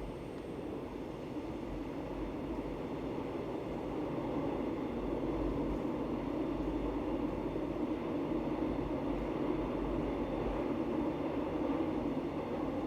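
Suin-Bundang line electric commuter train running, heard from inside the carriage: a steady rumble of wheels on track that grows louder over the first few seconds, then holds.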